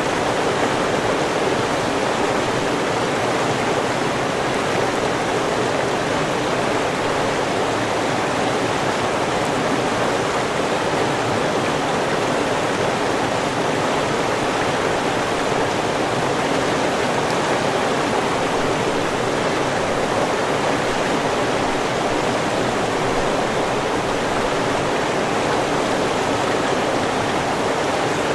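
A river running over rocks, a steady rushing flow with no change.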